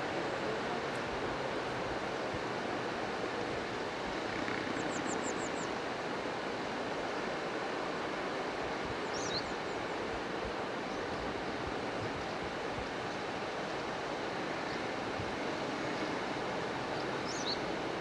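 Steady outdoor rushing noise, with a few brief high chirps on top and a quick run of five short notes about five seconds in.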